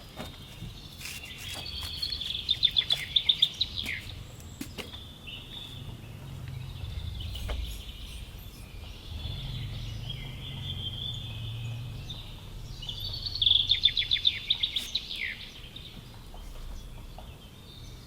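A songbird singing: two loud phrases of rapid, evenly repeated high notes, each ending in a falling note, about two seconds in and again about two-thirds of the way through, with softer chirps between, over a low background rumble.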